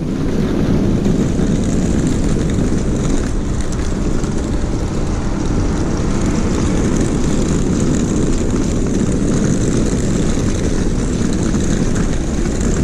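Steady drone of an aircraft in flight: engine and rushing air noise, even and unbroken throughout.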